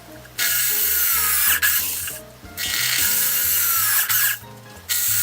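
Power drill boring out the old rubber bar pins from a metallophone's wooden resonator box, in three short bursts about a second and a half each.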